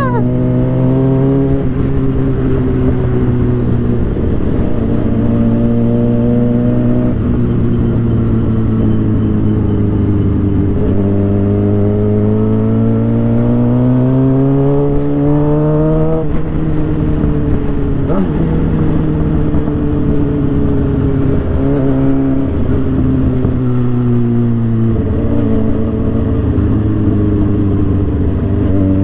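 Suzuki GSX-R 750's inline-four engine running under way. Its pitch climbs for several seconds about a third of the way through, then drops sharply as the rider shifts or rolls off, before rising again and holding.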